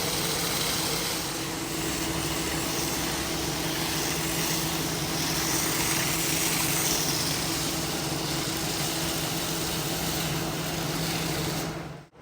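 A motor-driven machine running steadily, with a hum and a broad hiss of rushing air or spray. It cuts off abruptly near the end.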